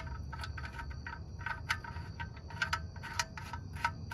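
Ratchet wrench clicking in short irregular strokes as the oil drain plug is screwed back into the oil pan, each click with a small metallic ring.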